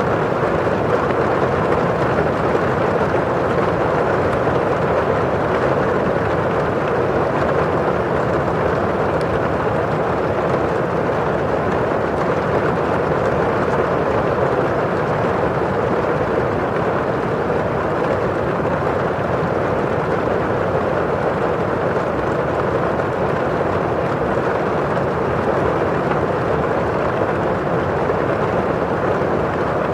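Steady rain on window glass mixed with the rush of rainfall outside: a continuous, even, fairly dull noise with no distinct individual drops.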